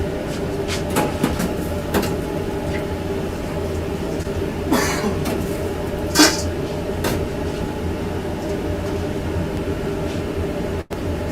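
Steady machine hum and rumble, with scattered light clicks and two short hisses about five and six seconds in; the sound cuts out for a moment near the end.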